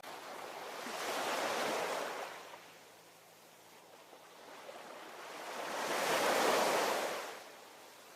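Ocean waves breaking and washing up the shore: two waves, each a rushing hiss that swells and fades, the second, about six seconds in, louder than the first.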